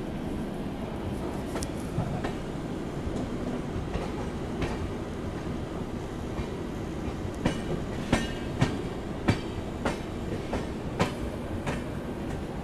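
Express passenger train running at speed, heard at an open coach door: a steady rumble of wheels on rail with sharp clicks as the wheels cross rail joints and points. The clicks come a few at a time at first, then in a quick run through the second half.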